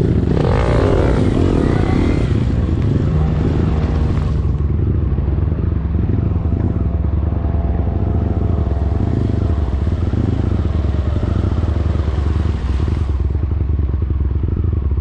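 A motor vehicle's engine running steadily, with a drone that holds through the whole stretch.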